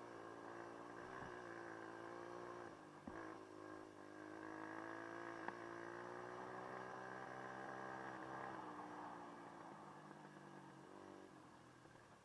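Dirt bike engine running with its pitch drifting gently up and down, fading toward the end, with a couple of sharp clicks along the way.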